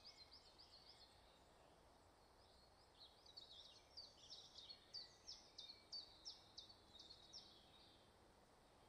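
Faint songbird song in woodland: a brief phrase at the start, then a longer run of quick, repeated high descending notes from about three to seven and a half seconds in, over a quiet outdoor hiss.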